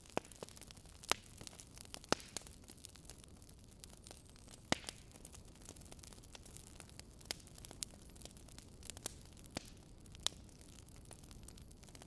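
Wood fire crackling: irregular sharp snaps and pops from burning logs, a few much louder than the rest, over a soft steady hiss.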